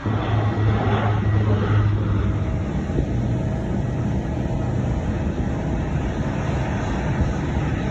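Jet airliner engines running, a steady rumble with a low hum that is strongest in the first couple of seconds.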